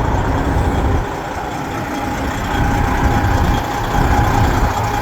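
Heavy truck's diesel engine idling steadily, a low rumble with a thin steady whine above it.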